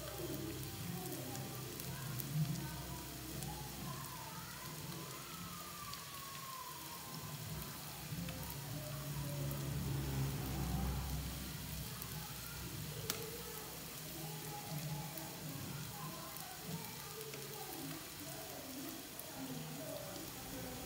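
Sliced shallots sizzling in hot oil in a frying pan as they fry crisp and golden, with a steady hiss.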